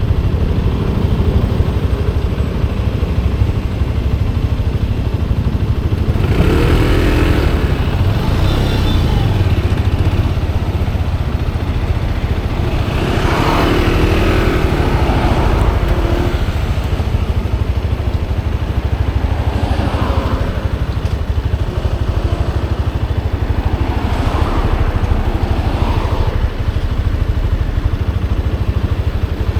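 Motorcycle riding on the road: a steady low engine rumble under wind noise, with the engine pitch rising and falling briefly a few times, most clearly about 7 and 14 seconds in.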